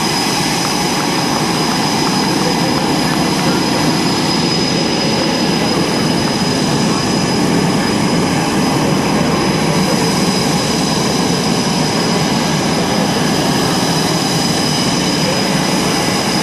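Military jet engines running steadily: a constant loud rush with several high, unchanging whine tones over it.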